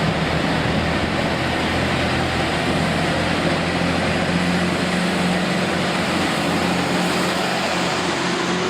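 Diesel train engine idling steadily, a constant low hum with a noisy wash over it.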